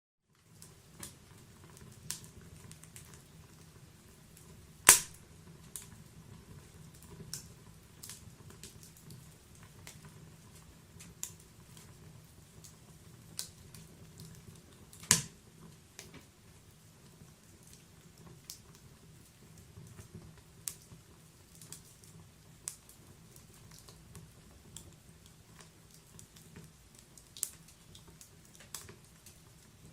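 Wood logs burning in a fireplace, crackling with irregular sharp pops and snaps over a low steady background. Two much louder pops come about five seconds in and about fifteen seconds in.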